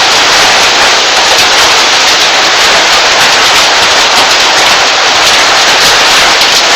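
Heavy monsoon rain pouring down, a loud, steady, dense rush of rain noise that keeps on without a break.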